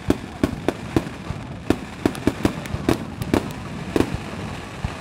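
Fireworks going off: a rapid, irregular series of sharp bangs, about three a second, over a steady noisy background.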